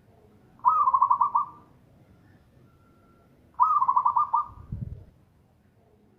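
Zebra dove (perkutut) cooing its song twice, each phrase a quick stuttering run of coos about a second long, about three seconds apart. A brief low thump comes just after the second phrase.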